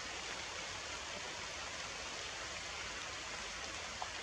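Heavy rain falling steadily, an even hiss, with one small tick about four seconds in.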